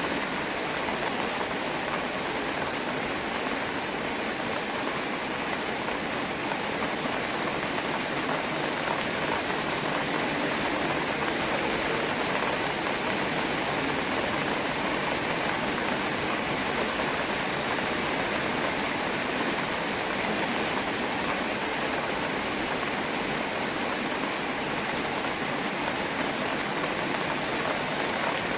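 Steady rain falling, an even unbroken hiss of many drops with no change in strength.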